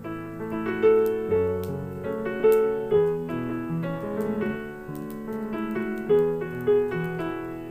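Solo piano playing a slow ballad melody, with single notes struck clearly over sustained chords. Faint crackling of a log fire sits underneath.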